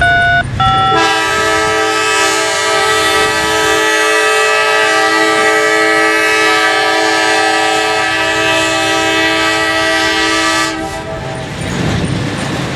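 Diesel locomotive air horn sounding a chord: a brief broken note at the start, then one long, loud, steady blast of nearly ten seconds that cuts off near the end.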